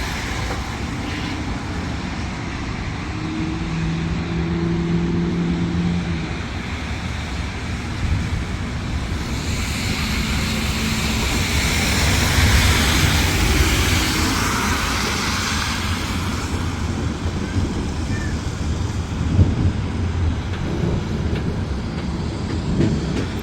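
Storm ambience outdoors: continuous wind noise and a low rumble that swells about halfway through and eases off. A brief steady low hum sounds a few seconds in.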